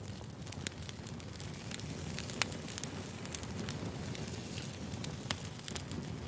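Wood fire crackling: irregular sharp pops and snaps over a steady low rush of burning logs.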